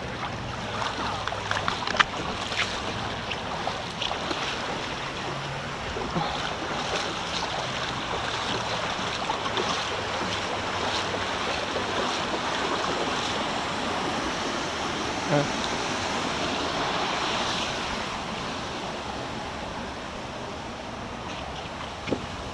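Steady rush of water and air noise as a rider slides down a water slide, with a few sharp knocks, one about two seconds in and another near the end.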